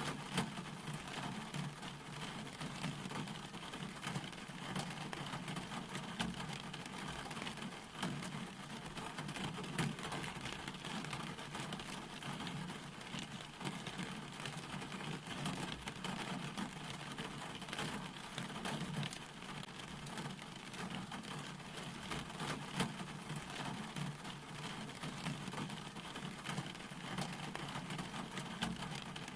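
Steady rain falling, with many individual drops ticking sharply through the hiss, over a steady low rumble.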